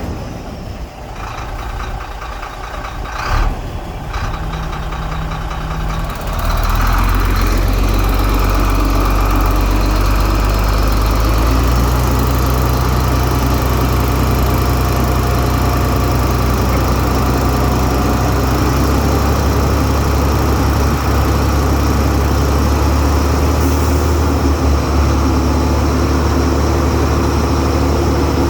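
Heavy diesel engine of earthmoving machinery running steadily, quieter for the first few seconds with one short knock about three seconds in, then louder from about six seconds on, its pitch shifting slightly a couple of times.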